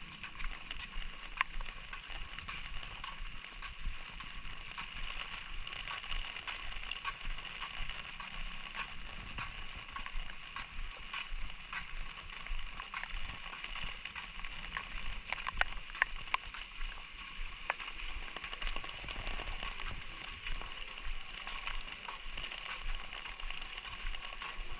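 Light drizzle falling, a steady hiss with many scattered sharp taps of drops.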